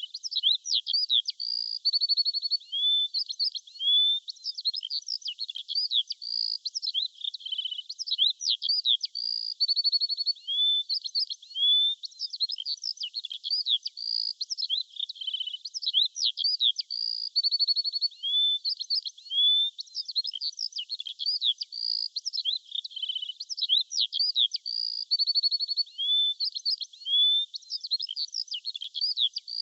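A chorus of small songbirds chirping, with many short calls, quick trills and sweeping notes overlapping without pause.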